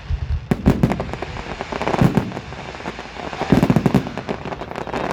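Fireworks going off: rapid bangs and crackling in several clusters, thickest about two seconds in and again near four seconds.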